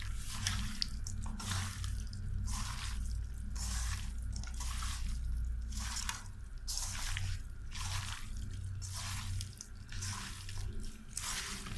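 Spoon stirring a wet onion-and-spice masala in a cooking pot in regular squelching strokes, about one and a half a second, over a steady low hum: the spices being fried down before water goes in.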